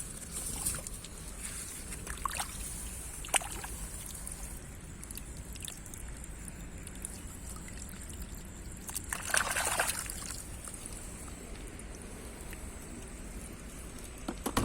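Shallow rice-paddy water sloshing and trickling as it is stirred, with a louder slosh about nine seconds in and a few light clicks earlier.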